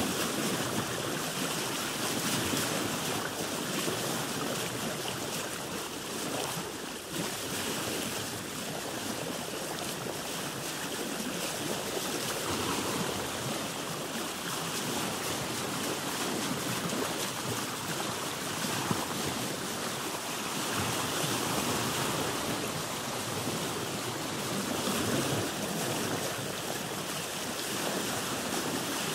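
Sea water sloshing and lapping against a boat's hull in a continuous wash that swells and eases every few seconds.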